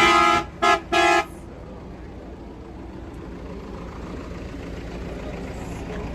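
A vehicle horn honking in three short toots in about the first second, followed by a steady low rumble of engine and traffic.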